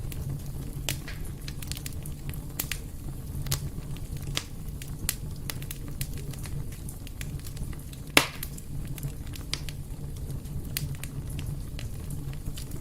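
Fire in a fireplace crackling, with frequent sharp pops over a steady low rumble; one pop about eight seconds in is much louder than the rest.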